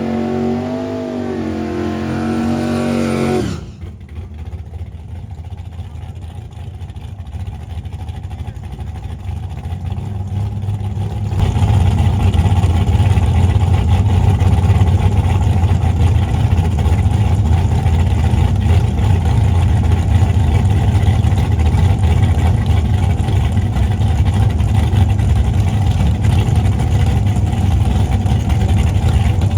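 Car engine revving with a wavering pitch, cutting off suddenly about three and a half seconds in. A low engine rumble follows, building up, and about eleven seconds in it becomes a loud, steady, deep rumble.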